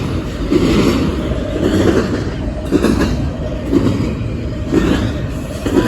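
Cars of a long train rolling past close by: a steady rumble of wheels on rail with a repeated clatter roughly once a second.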